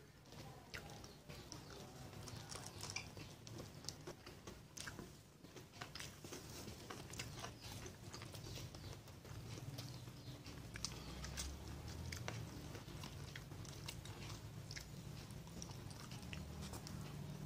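Close-miked eating sounds: chewing and biting, with irregular short crisp crunches and mouth clicks.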